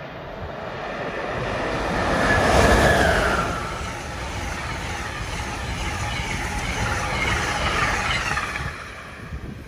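Amtrak electric passenger train passing through at high speed without stopping. The sound swells as it approaches, and a whine drops in pitch as the locomotive goes by about two and a half seconds in. A steady rush of the cars and blown snow follows, fading near the end.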